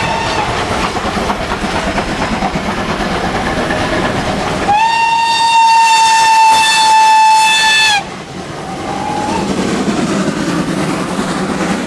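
Steam locomotive running past with steady rail and running noise. About five seconds in, its whistle gives one long, steady, single-pitched blast lasting about three seconds, and a short toot follows a second later.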